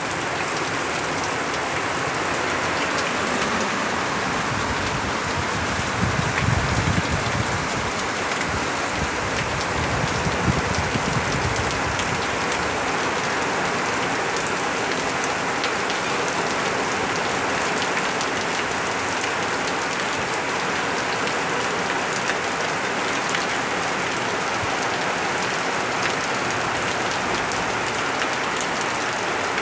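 Steady heavy rain falling. Low thunder rumbles twice, around six and ten seconds in.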